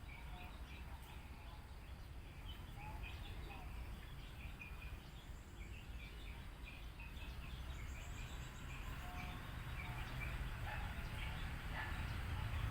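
Many small birds chirping in short scattered notes over a low, steady rumble that grows louder over the last few seconds.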